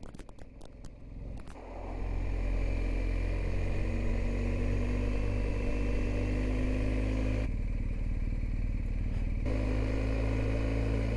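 Motorcycle engine pulling away after a quieter start with a run of ticks, its note rising slowly as it gains speed, with a short change in the sound partway through before it settles into steady running.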